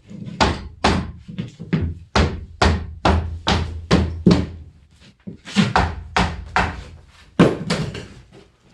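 A series of about twenty heavy hammering blows, roughly two to three a second with a brief pause about halfway, knocking a door frame into place.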